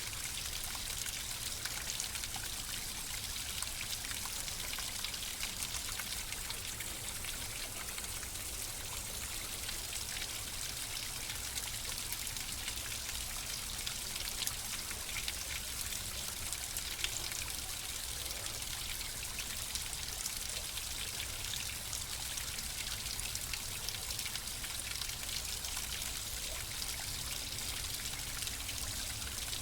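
Flowing water: a steady trickling stream with many small splashes and droplet sounds and no change in level.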